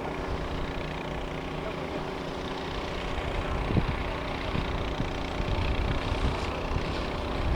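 A 9.9 hp, 220 cc outboard motor running at a steady pitch, pushing a hydrofoil catamaran at speed. A rougher low rumble with a few thumps grows from about three seconds in.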